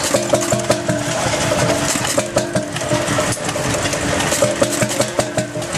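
Jelbart 6 HP hot-bulb oil engine, a vintage two-stroke stationary engine, running steadily with an even, regular knocking beat.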